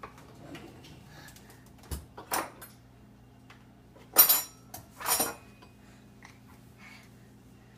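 Dishes and cutlery clinking and clattering as a dishwasher is unloaded: scattered knocks, with two loud, ringing clinks about four and five seconds in.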